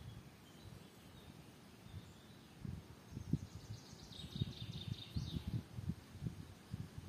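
Low muffled bumps and knocks, frequent from about two and a half seconds in. Over them, a songbird gives a short, rapid high trill about four seconds in, with faint high chirps earlier.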